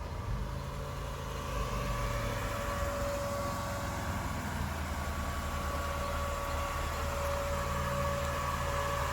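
Honda 3.2-litre J-series V6 VTEC engine running steadily at low revs, with a steady high whine over the engine note.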